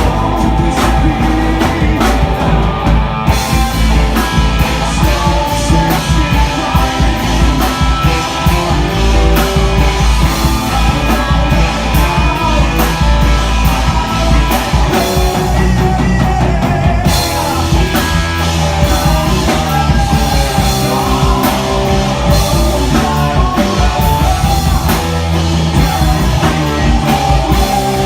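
Rock band playing live, with a drum kit and guitars; the cymbals come in fuller about three seconds in.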